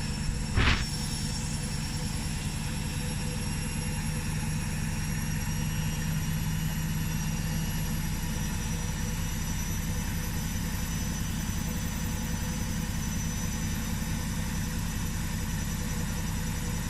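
Front-loading washing machine in its spin cycle with a heavy blanket load, the drum spinning up but not yet at full spin speed: a steady hum with a thin high whine over it. A brief knock comes about a second in.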